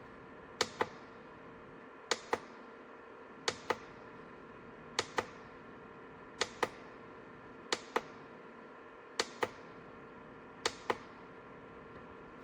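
A small dehumidifier running with a steady hum, under a regular double click that comes about every second and a half, eight times.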